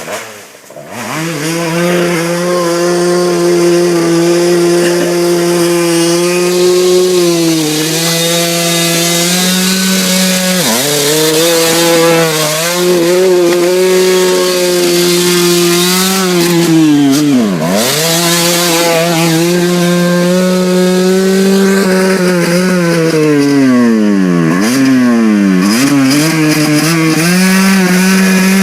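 Small motorbike engine held at high, steady revs. The pitch drops briefly and climbs back several times as the throttle is eased and reopened.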